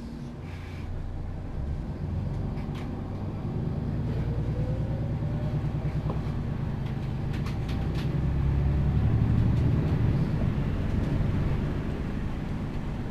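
MAN Lion's City G articulated city bus's Euro 6 diesel engine pulling and accelerating, with a whine rising in pitch as it speeds up. It grows louder until about three-quarters of the way through, then eases off.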